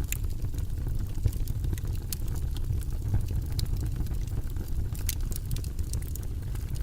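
Wood fire in a fireplace burning, with a steady low rumble of the flames and sharp crackles and pops scattered throughout. A few louder pops come about two, three and a half and five seconds in.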